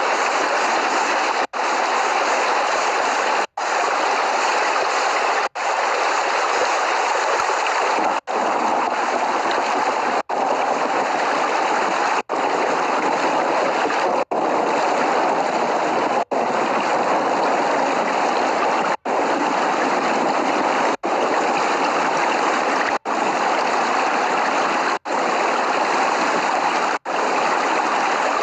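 Steady, heavy rain hiss with no thunder, cut by very short dropouts to silence about every two seconds.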